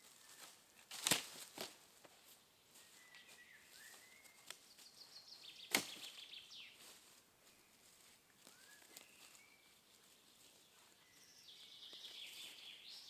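A few sharp knocks, two close together about a second in and a louder single one near the middle, over faint trilling birdsong that comes in two spells.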